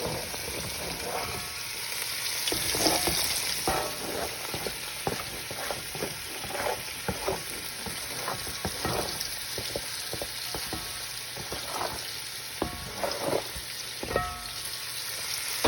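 Chopped onion, bell pepper, shrimp and celery sizzling in hot oil in a pan while being stirred, with frequent short clicks and scrapes of the utensil against the pan.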